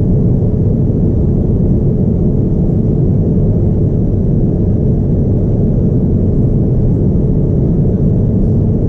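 Steady low rumble of cabin noise inside a Boeing 787-9 airliner, the engines and airflow heard from a seat over the wing, with a faint steady hum running through it.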